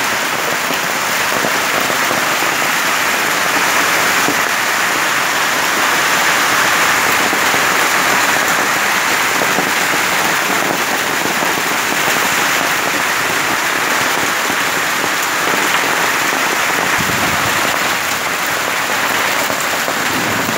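Heavy rain mixed with hail pouring down: a dense, steady hiss of rain with hailstones pattering on the street.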